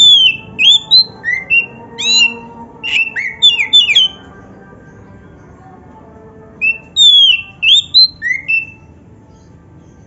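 Oriental magpie-robin (kacer) singing: quick runs of loud, clear whistled notes that slide up and down. One phrase lasts about four seconds, then after a pause a second phrase starts about six and a half seconds in.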